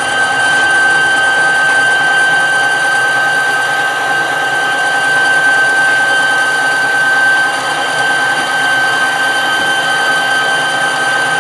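Metal lathe running under power feed on an internal boring spring pass, a steady high-pitched whine from the machine's drive that holds unchanged throughout.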